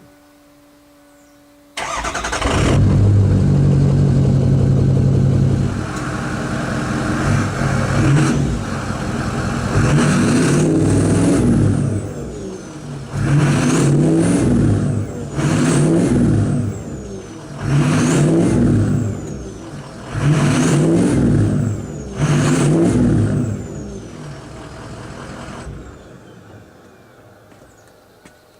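2004 Ford F-250's 6.0-litre Power Stroke V8 turbo-diesel, straight-piped with no muffler, starting up about two seconds in, idling loudly, then revved about half a dozen times, each rev followed by a high whistle that falls away. The sound dies down near the end.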